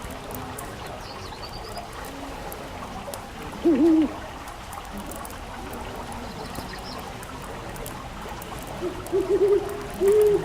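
An owl hooting: a short two-part hoot about a third of the way in, then a quick run of hoots near the end that leads into longer, arching hoots. Beneath it runs a steady hiss with faint crackling of a wood fire.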